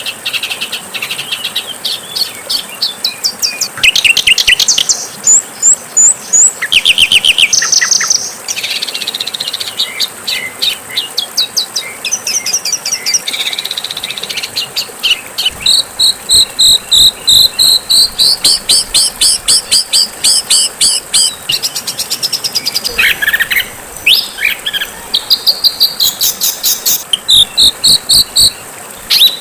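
Songbird masteran recording: high-pitched chirps and trills in fast, harsh series of sharp repeated notes, about five a second in the longest runs, with short breaks between phrases.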